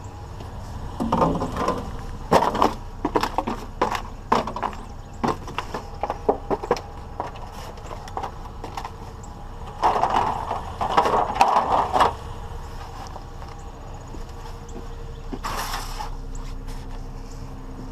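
A vehicle engine running steadily at idle, overlaid by clusters of sharp knocks and rattles from handling scrap metal and the vehicle, busiest about a second to five seconds in and again around ten to twelve seconds in.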